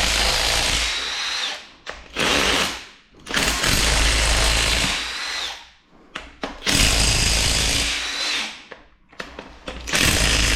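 Cordless power tool, most likely an impact wrench, running in repeated bursts of one to two seconds while backing out the main bearing cap bolts of a GM 2.4 EcoTec engine. A short rising whine comes near the end of some bursts.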